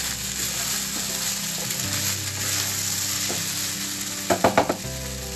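Fried rice sizzling in a granite-coated frying pan as it is stirred and tossed with a spatula. About four seconds in comes a quick run of several louder spatula strikes against the pan.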